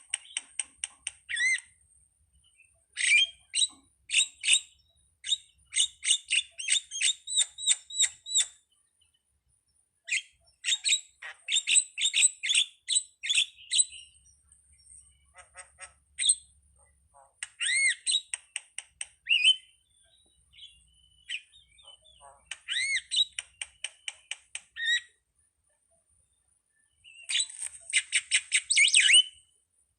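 Jalak (starling) calling in repeated bouts of fast chattering notes mixed with rising whistles, with short pauses between bouts.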